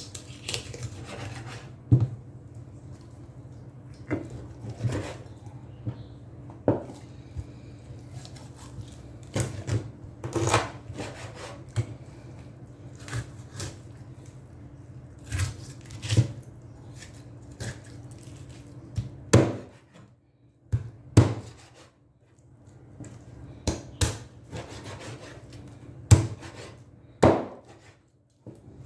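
Kitchen utensils knocking and scraping on wood and cookware at irregular intervals, a sharp knock every second or two, over a steady low hum.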